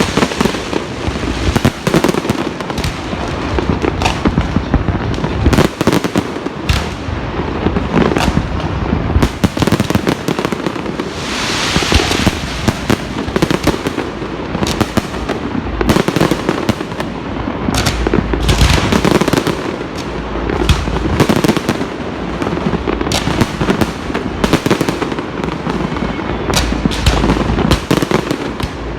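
Fireworks going off in a continuous barrage of many overlapping bangs and crackles, with a hissing stretch about twelve seconds in.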